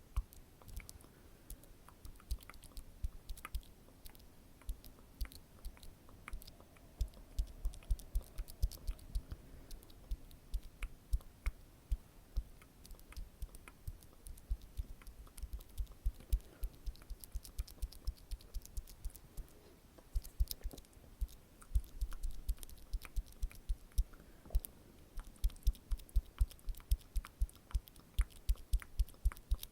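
Close-miked ASMR mouth sounds and tapping: soft wet mouth clicks over a run of soft low taps, several a second, most even near the end.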